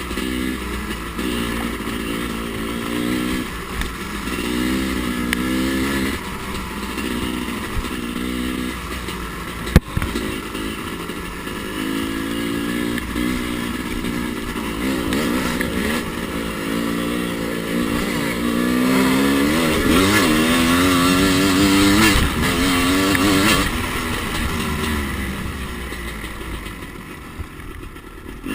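Two-stroke dirt bike engine revving up and falling back again and again as it is ridden around the track, louder for a few seconds past the middle and fading near the end. A single sharp knock is heard about ten seconds in.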